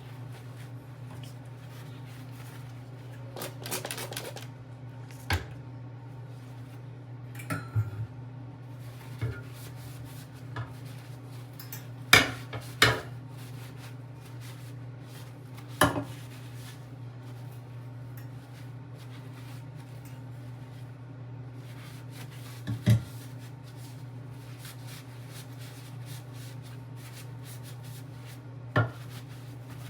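Metal kitchenware being handled during cleaning: about eight sharp clinks and knocks at irregular moments, with a brief stretch of rubbing near the start, over a steady low hum.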